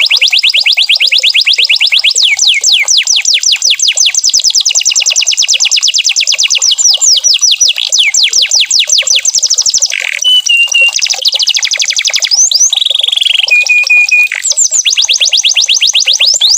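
Domestic canary singing a long, unbroken song of fast trills: rapid rolls of falling whistled notes that change speed and pitch from phrase to phrase, with a few short held whistles in between.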